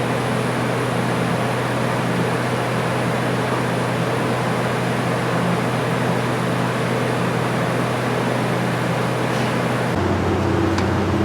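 Steady hum of running machinery, a constant low tone over a noisy hiss. About ten seconds in it shifts to a lower hum with a few faint clicks.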